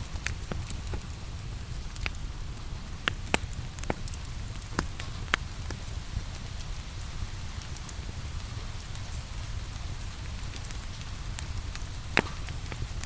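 Steady rain hiss mixed with a crackling wood fire in a fireplace, with a low rumble underneath. Sharp pops from the fire come every second or two, the loudest about three, five and twelve seconds in.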